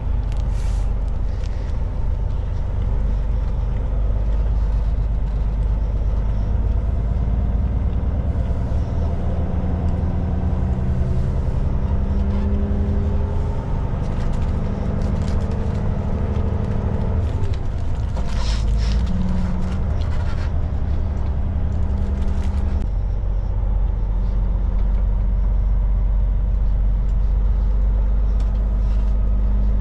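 Kenworth K200 cab-over truck's Cummins diesel engine running under way, its pitch rising and falling as it pulls through the gears. A few short hisses of air come through, one near the start and a couple a little past halfway.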